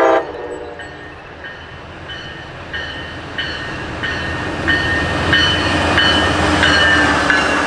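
Diesel-electric Siemens Charger locomotive hauling a passenger train, its low rumble growing louder as it approaches. Short high wheel squeals recur every half second or so. A horn blast cuts off right at the start.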